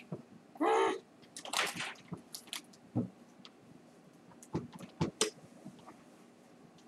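Objects being handled and set down: scattered knocks and rustles, a couple of short swishes, and a short pitched squeak about a second in.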